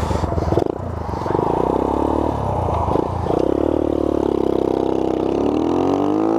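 Small 125cc motorcycle engine revving: a few uneven throttle blips in the first three seconds, then held on the throttle with the pitch climbing near the end.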